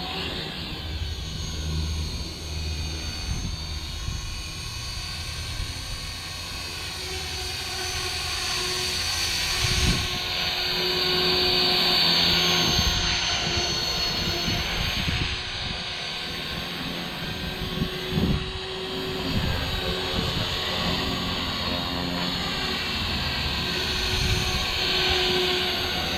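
Radio-controlled helicopter flying, its rotor and motor whine shifting up and down in pitch as it manoeuvres, with gusts of wind buffeting the microphone.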